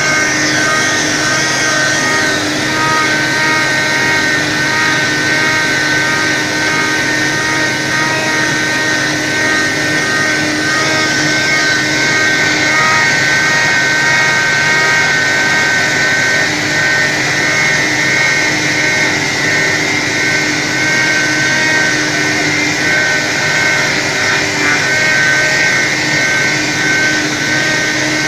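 Pneumatic spray-patching road repair machine running steadily: engine and air blower make a constant loud noise with a steady high whine.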